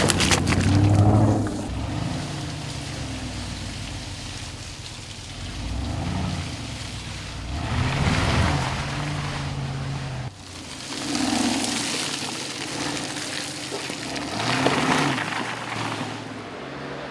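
Aston Martin DBX's 4-litre twin-turbocharged V8 revving up and easing off several times over a steady rush of tyre and road noise. The noise is loudest near the start, and the sound breaks off abruptly about ten seconds in before the engine picks up again.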